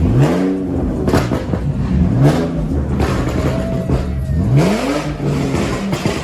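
Car engine revved three times, its pitch climbing and dropping back each time, with an idle between the revs.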